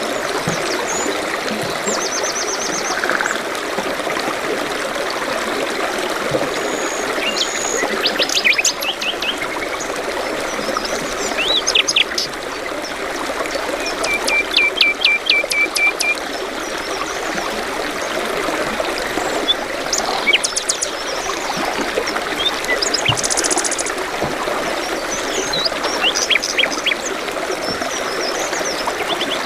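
A brook babbling steadily, with small birds singing and chirping over it: scattered short trills and chirps, a run of quick repeated notes around the middle, and a fast high trill a little later.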